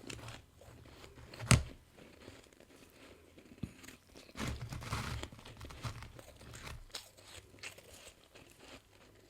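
Person biting into and chewing freezer frost, crisp crunching close to the mouth. One sharp, loud crunch comes about a second and a half in, and a quicker run of crunches follows in the middle.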